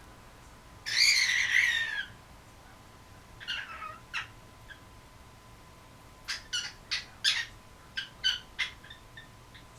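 Cockatiel giving one loud, harsh squawk about a second in, then a few softer calls, and from about six seconds a run of short, sharp chirps, roughly three a second.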